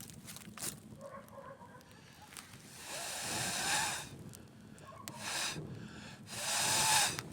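Campfire crackling with scattered sharp pops, broken by three louder hissing rushes in the second half, the last the loudest.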